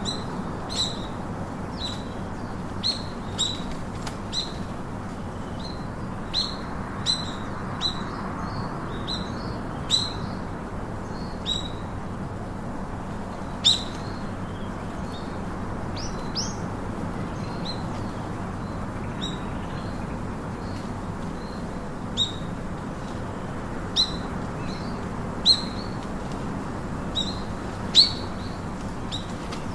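Birds chirping: short, sharp chirps repeating irregularly every second or two over a steady background hiss. The loudest chirps come near the end.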